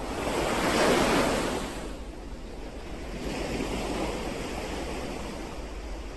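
Ocean waves breaking on the shore: one wave crashes about a second in, then a softer wash of surf follows.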